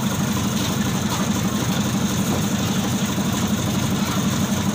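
An engine running steadily at a constant pace, with a low, even hum.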